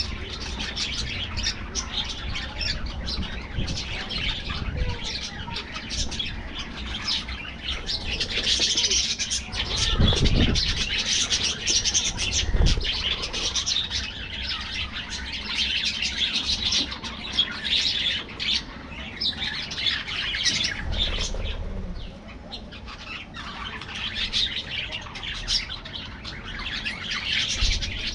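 A colony of budgerigars chattering and warbling together in a continuous, dense stream of chirps and squawks. Two short low thumps stand out about ten and twelve seconds in.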